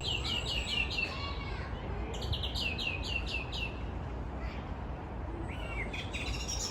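A small bird calling in quick runs of short falling notes, a run at the start, another a little after two seconds and a shorter one near the end, over a low steady rumble of background noise.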